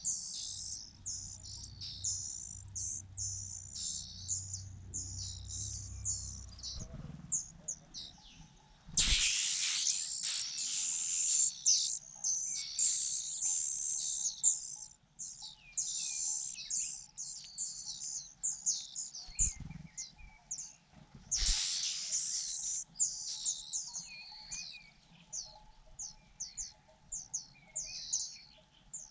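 Rufous-bellied niltava nestlings begging: a rapid, dense run of short high-pitched chirps. There are two sudden noisy bursts, about nine and twenty-one seconds in, and each is followed by louder, busier begging.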